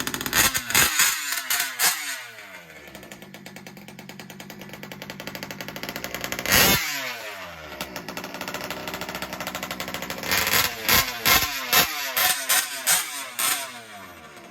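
Gas two-stroke engine of a 1/5-scale RC car idling and blipped to high revs: a few quick blips near the start, one in the middle, and a run of short blips near the end, each time dropping back to idle. It is being broken in, its fuel-air mixture being adjusted.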